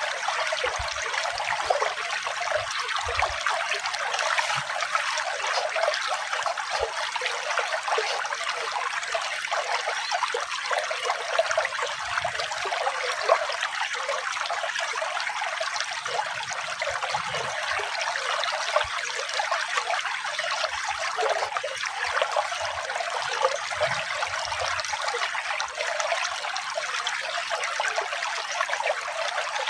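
Running water trickling and splashing steadily, an even rushing hiss with no music.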